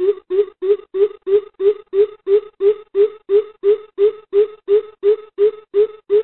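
Coucal (bìm bịp) giving its deep hooting call: a long, even run of low hoots, about three a second, with the pitch rising slightly before holding steady. The recording is played as a lure call for trapping coucals.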